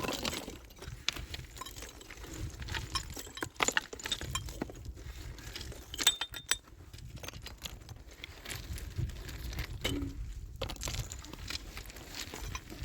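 Scattered small clinks and knocks of hard objects being handled, with a louder clink about six seconds in that rings briefly.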